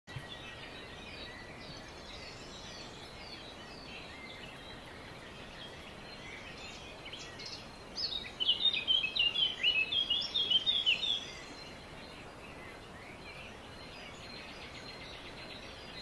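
Songbirds chirping and singing over a steady background hiss. From about eight to eleven seconds in, one bird sings much louder, a fast run of short falling notes.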